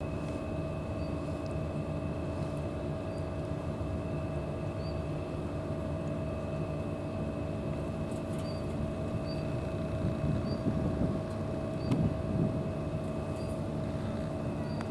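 A steady mechanical drone with a constant hum of several fixed tones over a low rumble, with faint short high chirps every second or so. The rumble swells louder for a couple of seconds near the end.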